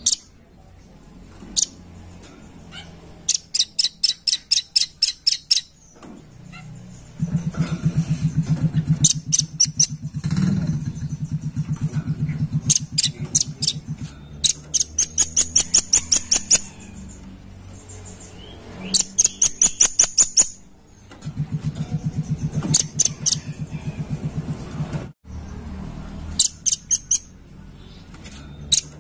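Velvet-fronted nuthatch (red-billed nuthatch) calling: repeated bursts of rapid, sharp, high chattering notes, each burst lasting a second or two, with short pauses between. A lower pulsing buzz runs under the calls for a few seconds at a time, twice.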